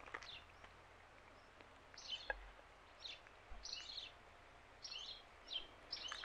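Faint birdsong: a songbird repeats short, high chirping notes about every half second to a second, starting about two seconds in.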